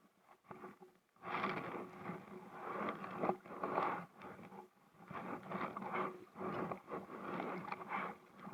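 Scraping and rubbing noises in irregular bursts, starting about a second in.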